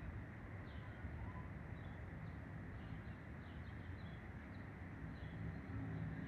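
Small birds chirping faintly, short scattered chirps over a steady low outdoor rumble.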